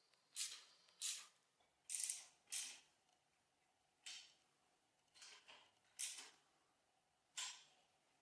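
About eight short scraping strokes, irregularly spaced roughly a second apart, from hand work on metal parts.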